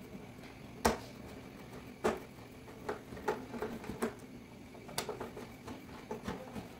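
Small metal clicks and taps as nuts are fitted onto a gas stove's burner valve: a few sharp clicks about one, two, four and five seconds in, with lighter ticking between them.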